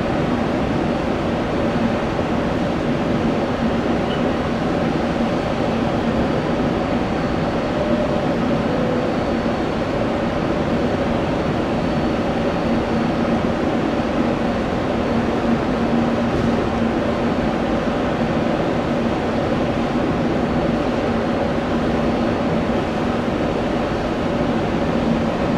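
Jet airliner engines running steadily, a constant rumble with a steady hum and a faint high whine.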